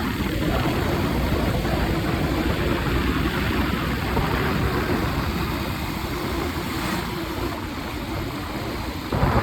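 A vehicle engine running steadily, with road and wind noise. There is a short louder burst near the end.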